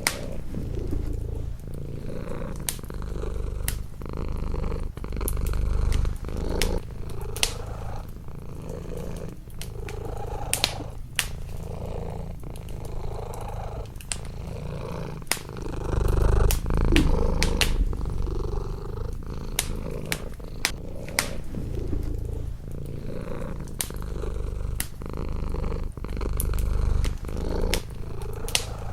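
Domestic cat purring close up, the purr swelling and easing with each breath, over a wood fire in a fireplace crackling with frequent sharp pops.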